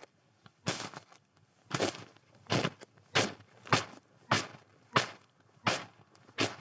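Footsteps crunching in snow: a steady walking pace of about nine crunchy steps, the first two a little further apart.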